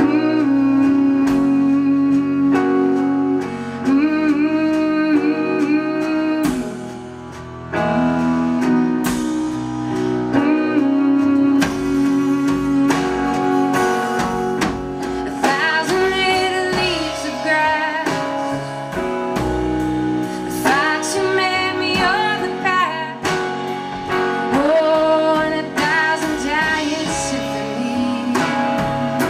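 Live band music: plucked guitar with a bass line under it, and a wavering melody line rising over it from about halfway.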